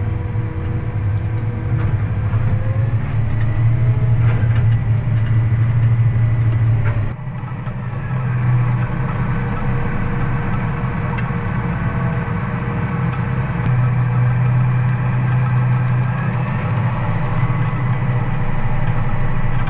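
Engine of heavy farm harvest machinery running steadily with a low hum. About seven seconds in the sound drops briefly, then carries on at a slightly different pitch.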